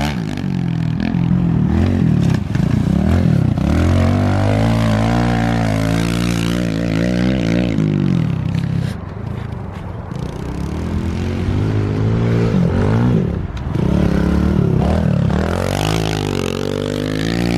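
Small minibike engine being ridden, its revs rising and falling again and again as the throttle is worked. It eases off about halfway through, then picks up again.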